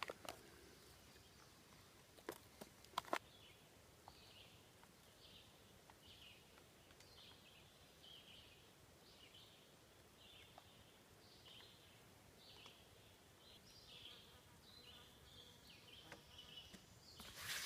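Faint woodland ambience with a small creature's short high chirp repeating roughly once a second. A few sharp clicks come about two to three seconds in.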